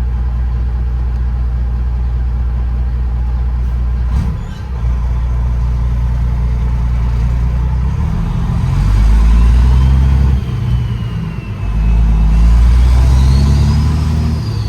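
Detroit Series 60 diesel in a Peterbilt 389 running steadily, then pulling harder twice in the second half. A turbo whistle rises and falls with the revs.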